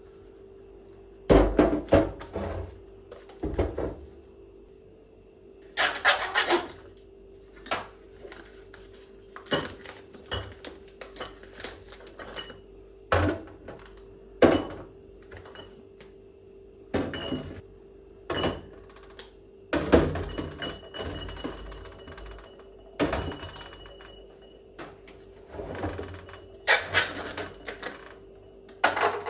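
Household items being handled and set down: irregular knocks, thuds and clatters like containers and dishes, about a dozen or more, over a steady low hum.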